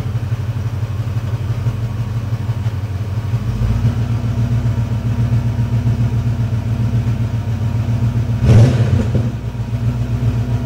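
1985 Ford Mustang GT's 5.0-litre V8 idling with a slow, steady rumble through its stock exhaust, warming up after a cold start. A brief louder burst cuts in about eight and a half seconds in.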